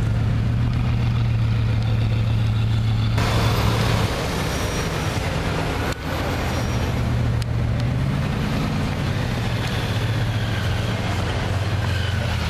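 Bugatti Veyron 16.4's quad-turbocharged W16 engine idling steadily at low revs, then moving off slowly, its pitch rising briefly about two-thirds of the way through. The sound changes abruptly twice, at about three and six seconds in.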